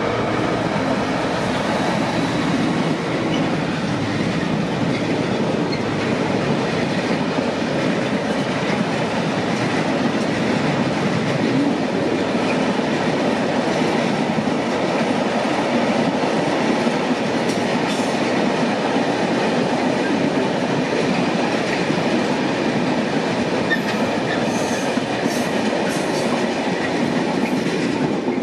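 Freight train rolling past: a DB Cargo Class 60 diesel locomotive followed by a long rake of freight wagons, the wagon wheels running on the rails with a steady, loud rumble and rattle.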